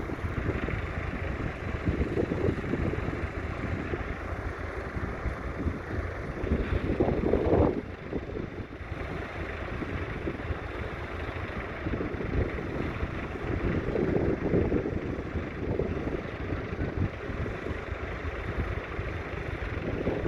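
1970 Ford 3000 tractor's 2.9-litre three-cylinder diesel engine running, with gusts of wind buffeting the microphone, the strongest gust about halfway through.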